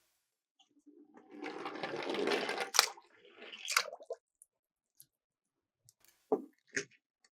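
Miniature toy cars rolling and rattling down a plastic slope for about two seconds, followed by two sharp knocks about a second apart and two more short knocks near the end.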